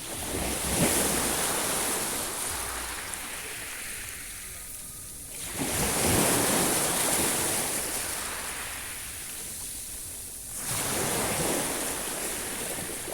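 Sea waves breaking and washing up, three in turn about five seconds apart, each surging in quickly and then fading away.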